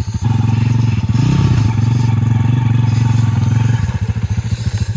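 Pit bike's single-cylinder engine opened up from idle to a loud, steady run shortly in, briefly rising in pitch, then dropping back to idle near the end.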